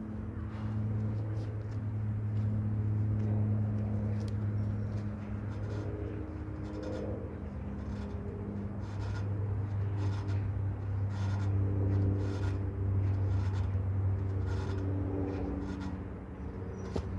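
A steady low hum with wavering overtones, like an idling motor, with scattered light clicks and rubbing over it.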